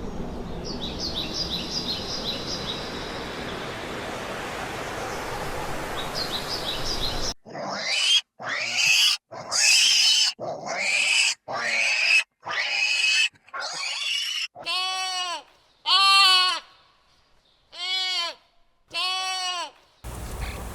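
An outdoor background hiss with a few short, high bird chirps. It cuts off abruptly and gives way to a series of about ten short animal calls, each under a second long. The first calls are rough and noisy; the last few are clear, pitched cries that rise and fall in an arch.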